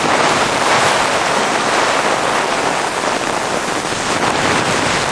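Heavy thunderstorm rain pouring down onto a tarp canopy and the grass around it, a loud, steady hiss.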